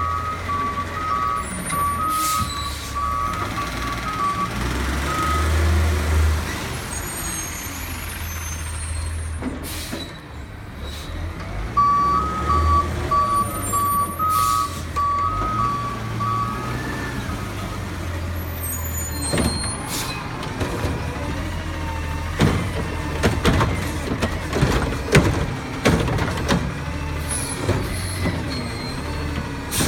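Garbage truck's diesel engine running, with its reversing beeper sounding in two spells of steady beeps, one at the start and one about halfway through. Brief air-brake hisses come now and then, and a run of knocks and bangs takes up the last third.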